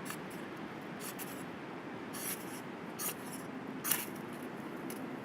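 Ferrocerium rod being scraped with a striker to throw sparks onto a kindling bundle: about five short, sharp rasps, roughly one a second.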